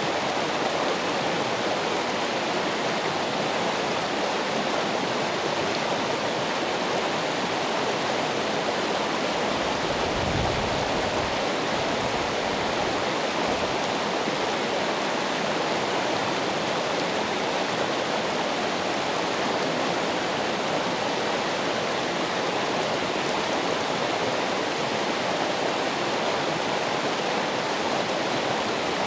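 Steady rushing of running water, even and unbroken, with a brief low rumble about ten seconds in.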